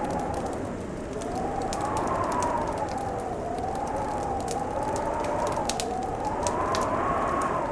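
Fire crackling with frequent sharp pops over a low rumble, while wind howls in a tone that slowly rises and falls in pitch.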